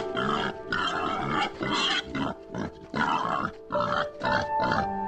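An animal calling in a run of short, harsh grunts and squeals, about two a second, over background music with steady held notes.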